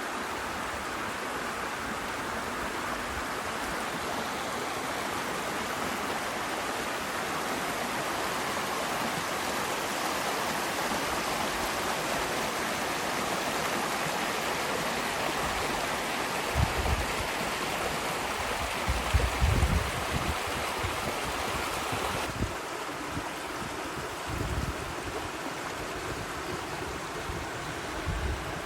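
Mountain river rushing over rocks: a steady rush of water. A few short low bumps break in about two-thirds of the way through.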